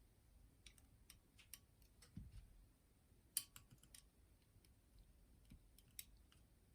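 Faint, scattered small clicks and taps of hands working on the cassette deck mechanism while fitting a rubber drive belt onto its pulleys. The sharpest click comes about halfway through.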